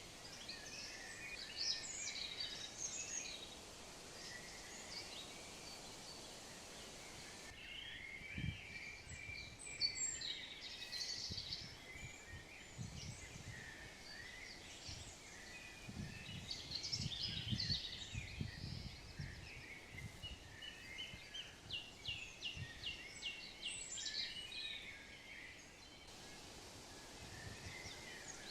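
Small birds chirping and twittering throughout, many short calls over a steady outdoor hiss, with a few soft low thumps in the middle.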